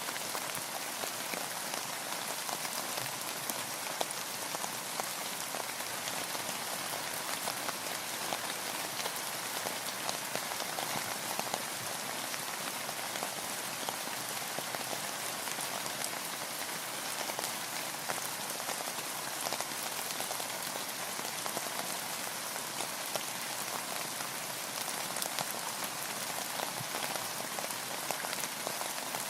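Steady rain falling: an even, unbroken hiss made of countless small drop impacts, with little low end.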